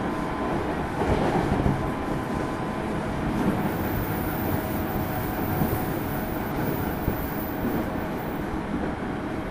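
Running sound heard inside a JR East 205 series 0-番台 electric multiple unit motor car (MoHa 204) travelling along the line: a steady rumble of wheels on rail with faint steady tones from the running gear.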